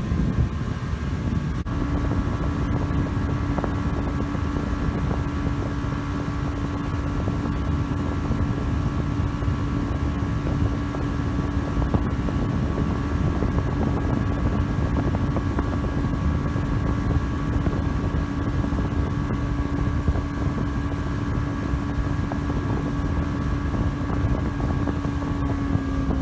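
Motorboat engine running steadily under way, with wind buffeting the microphone. A steady hum with overtones sets in about two seconds in and dips slightly near the end.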